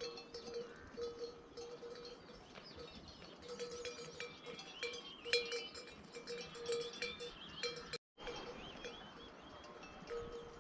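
Bells worn by grazing livestock clanking irregularly, many ringing strikes overlapping, with a short break about eight seconds in.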